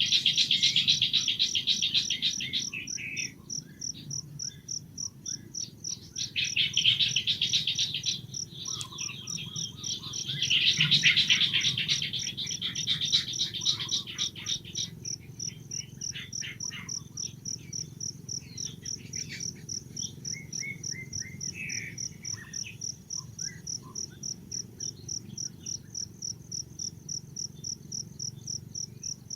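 Insects chirping in a steady, evenly pulsed high rhythm of about three pulses a second. Louder buzzing bursts come three times in the first half, and scattered short chirps and calls follow later.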